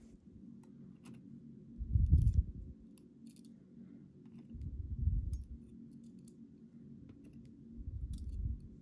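Faint scattered metallic clicks and ticks of small pins and tools being handled while reassembling a Schlage Primus Everest lock cylinder, with three dull low thumps about three seconds apart.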